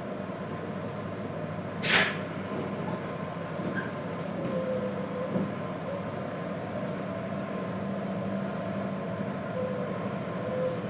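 JR Hokkaido 721 series electric train heard from inside its motor car while running, a steady rumble with a low, steady hum. About two seconds in there is one short, sharp burst of noise.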